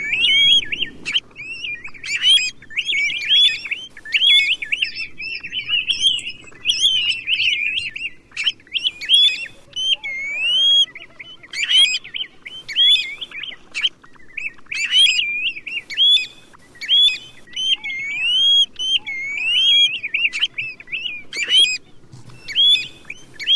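Tu huýt bird calling: a continuous run of short, clear whistled notes that swoop up and down, several a second.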